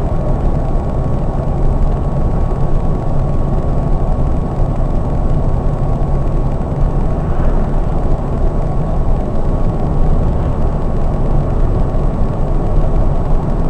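Steady low rumble of a Scania K420 double-decker coach on the road, heard from the driver's position: engine, tyre and road noise together, with a thin steady whine above it.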